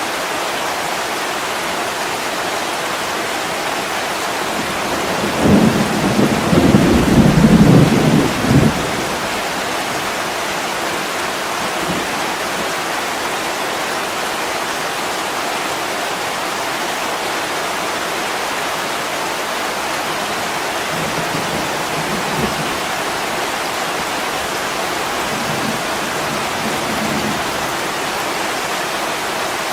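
Heavy rain falling steadily on a window in a thunderstorm, with a rumble of thunder starting about five seconds in and lasting some three seconds, and fainter low rumbles later on.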